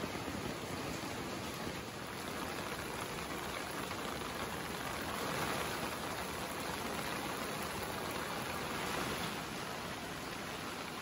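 Steady rain falling and splashing into puddles and onto wet paving.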